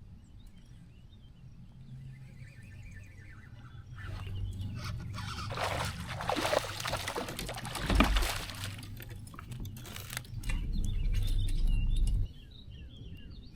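Water splashing and knocking around a kayak, with one loud thump about eight seconds in and a low hum that cuts off suddenly near the end. Birds chirp faintly at the start.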